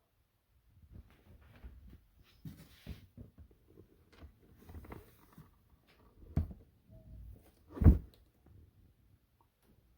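Scattered rustles and light knocks, with one loud thump about eight seconds in.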